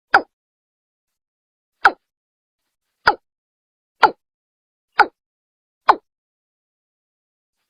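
Watercock (Gallicrex cinerea) calling: six short notes, spaced closer and closer from nearly two seconds apart to under a second apart, with silence between them.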